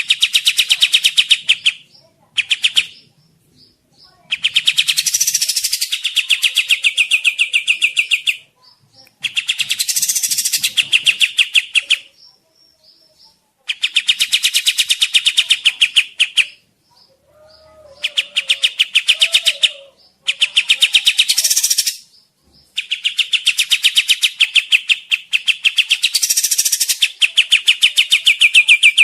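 Kapas tembak bird singing: a series of very fast, loud trills, each lasting one to five seconds, with short pauses between them, played as a lure call.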